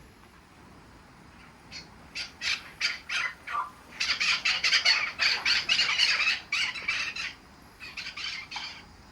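Birds calling in a run of short, harsh calls that start about two seconds in and grow dense and overlapping in the middle, with a few more near the end.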